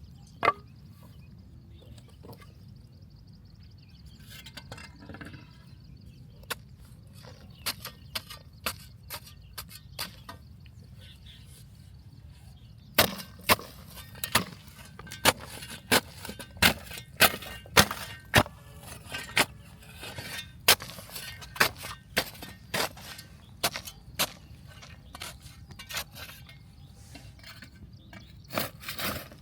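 Sharp knocks, scattered at first, then a fast irregular run of loud knocks about two to three a second from a little under halfway through.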